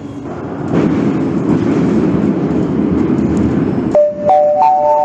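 Metro train running, a steady low rumble that grows louder, cut off abruptly about four seconds in by the on-board public-address chime: three notes rising one after another and ringing together, the signal that an announcement is coming.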